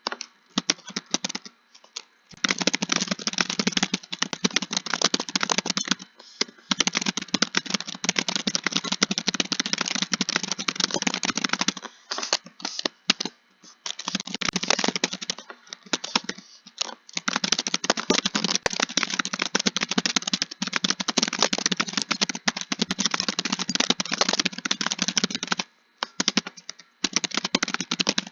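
Computer keyboard being typed on quickly and continuously, long runs of rapid keystrokes broken by brief pauses a few times.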